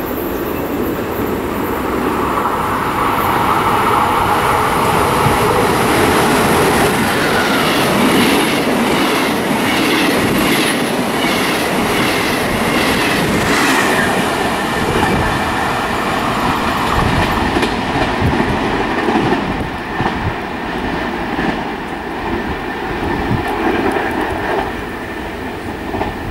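Trenitalia regional passenger train passing close by: the wheel and running noise builds up, with a run of rhythmic wheel clacks over rail joints in the middle. After that it eases into a lower, uneven rumble as the train moves away.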